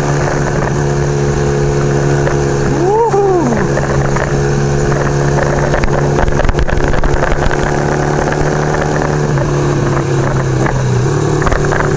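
1975 Kawasaki KZ400 parallel-twin engine running at a steady speed under way, over constant wind rush. The engine note steps down around nine seconds in and again near eleven. A brief rising-then-falling tone sounds about three seconds in.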